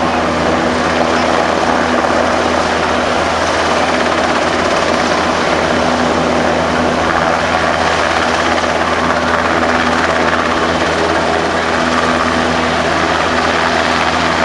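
A helicopter flying, its rotor and turbine engine running as one steady, continuous noise with a few held tones and no sudden changes.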